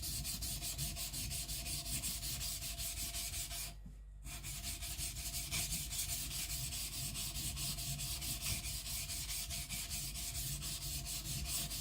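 Steel kiridashi blade scraping back and forth on a coarse whetstone, about four strokes a second with a brief pause about four seconds in. The stone has just been roughened to give it fresh teeth, so it is cutting fast and loading up with grey-black swarf.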